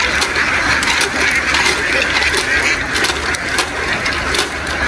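A large flock of ducks quacking all together in a dense, steady din, with many small clicks and taps scattered through it.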